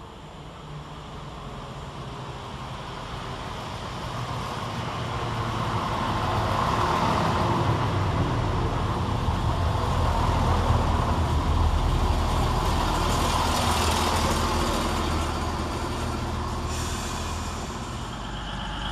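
Class 170 Turbostar diesel multiple unit's underfloor diesel engines running with a steady low drone, swelling over the first several seconds and easing somewhat near the end.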